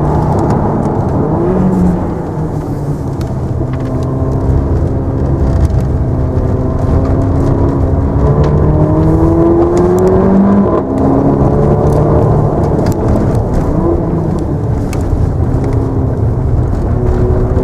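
Mercedes-AMG GLA 45's turbocharged 2.0-litre four-cylinder engine heard inside the cabin while driving. Its pitch climbs under acceleration and falls back at upshifts, most clearly about two seconds and about eleven seconds in.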